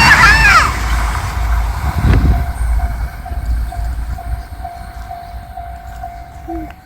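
A train passing over a level crossing, its low rumble fading away after about a second, while the crossing's warning bell rings steadily about twice a second until it cuts off abruptly.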